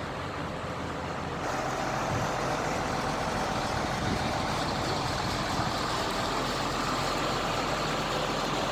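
Heavy vehicle engines running steadily, growing louder about a second and a half in as one draws nearer.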